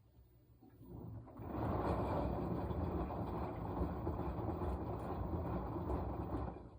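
Washing machine drum turning during the wash, the motor rumbling as water and laundry slosh, for about five seconds before it stops and the machine falls quiet for a pause.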